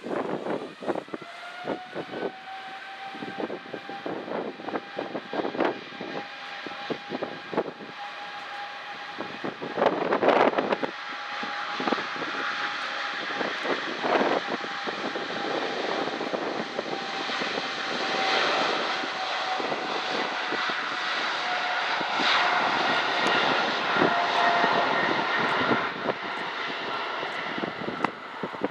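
Boeing 777-200ER's twin GE90 turbofans at takeoff power: a jet roar with a steady high whine. It grows louder about halfway through as the airliner rolls down the runway.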